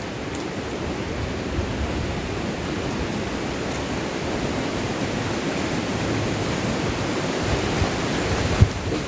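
Heavy rain and wind in the forest: a steady rushing hiss that swells slightly, with one short, dull thump near the end.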